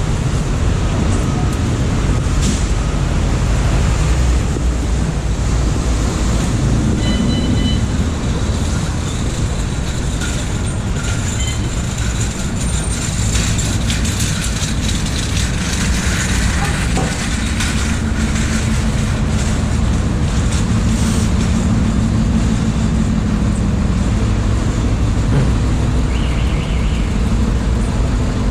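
Subway train running, a loud steady rumble with brief high-pitched squeals about a third of the way in.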